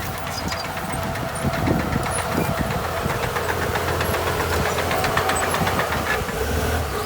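Heavy diesel engine of earthmoving machinery running steadily, with a steady whine and a fast ticking clatter through the middle.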